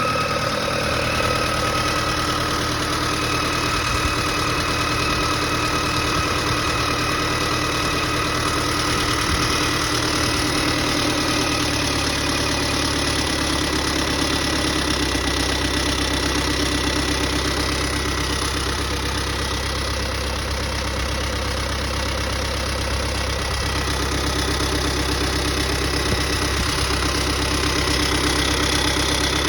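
Freshly rebuilt Iveco Daily Mk2 engine idling steadily.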